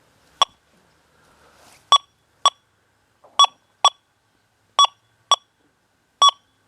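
Metal detector in its Goldfield program giving short, sharp tone beeps as the coil is swept back and forth over a test target. There are eight beeps, in pairs about half a second apart, one on each pass of the sweep.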